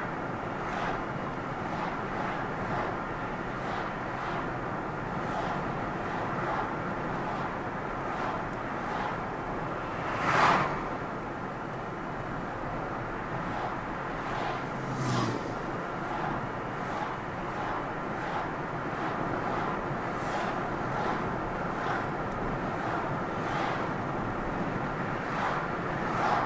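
A car being driven, with steady road and engine noise. A brief, louder burst of sound comes about ten seconds in, and a smaller one around fifteen seconds.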